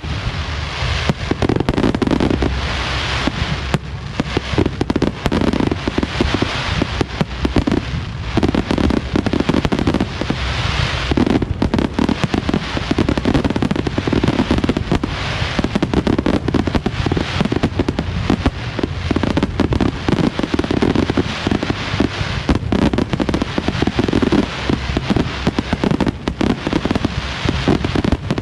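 Fireworks show in full swing: a dense, continuous run of shell bursts, bangs and crackle with no letup.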